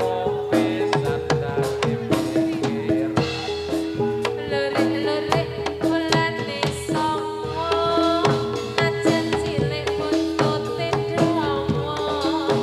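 Jathilan music played live: kendang drumming in a steady, driving rhythm under gamelan-style pitched percussion, with a higher melody line that bends in pitch.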